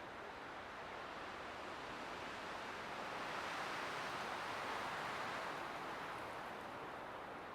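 Light wind blowing as a soft, even rushing that swells gently near the middle and eases off again.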